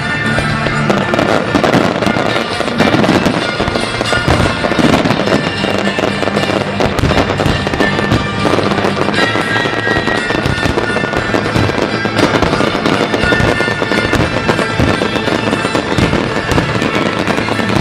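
New Year's fireworks going off in a dense, continuous barrage of bangs and crackles, with music playing underneath.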